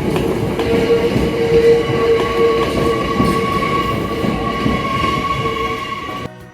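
Hakone Tozan Railway train running on the rails: a loud rumble with a steady high squeal over it, which cuts off suddenly near the end.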